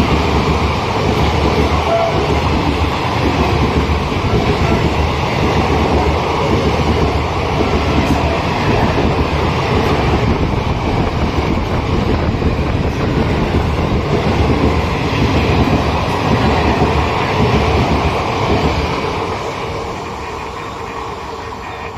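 Coaches of an Indian Railways express train passing at speed, a loud steady rush of wheel and rail noise that dies away about nineteen seconds in as the last coach goes by.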